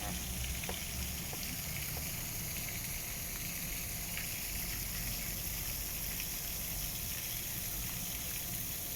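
Steady outdoor hiss with a constant high-pitched buzz over it and a few faint ticks in the first second or so.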